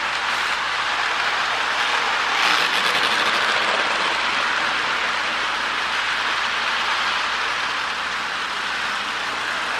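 Marx E7 O-gauge toy train running on its track: a steady whir of the motor and wheels rolling over the rails, a little louder about two and a half seconds in.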